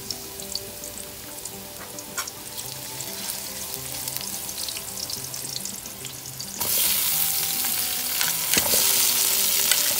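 Julienned ginger sizzling in hot oil in a pan while it is stirred, with small pops and crackles. About two-thirds of the way through the sizzle jumps suddenly much louder and brighter as onions and tomatoes go into the hot oil.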